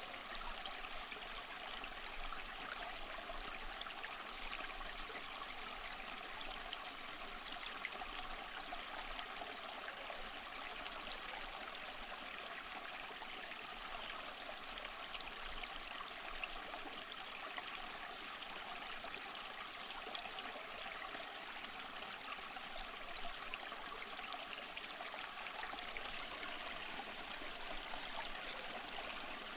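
Waterfall: water falling and splashing steadily, a continuous hiss of fine splashes with little low rumble.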